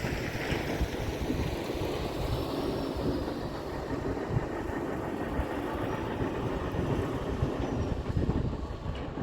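Heavy diesel tipper truck running with a steady low rumble, with wind noise on the microphone.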